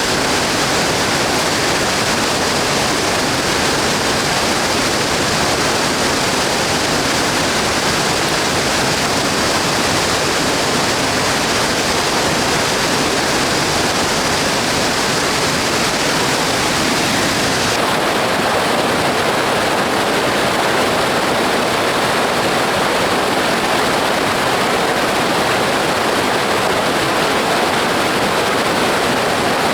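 River water rushing steadily, a constant loud hiss of flowing water. Its tone shifts about eighteen seconds in, the higher part growing fainter.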